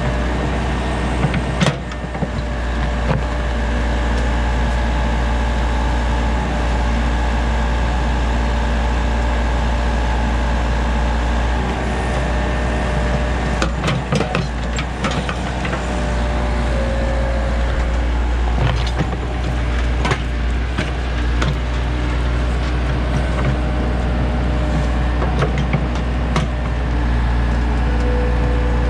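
JCB backhoe's diesel engine running steadily under load as it digs out a tree stump, with a few sharp metal clanks from the bucket and boom and a couple of brief hydraulic whines.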